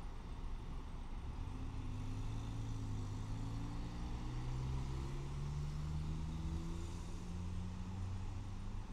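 A motor vehicle's engine accelerating, its low hum rising slowly in pitch over several seconds.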